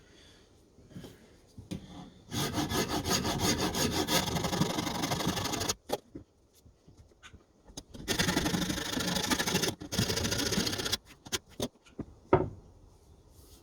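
Wood being abraded off the end of a new spotted gum maul handle to thin it for the head's eye, in two long spells of rapid scraping about three seconds each. A sharp knock comes near the end.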